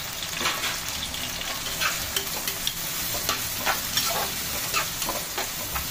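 Onions and tomatoes sizzling as they sauté in hot groundnut oil in a kadai, stirred with irregular scrapes of a spoon against the pan.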